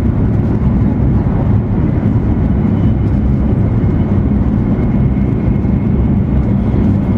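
Cabin noise inside an E2 series Shinkansen running at high speed: a steady low rumble with a faint, thin, high whine held above it.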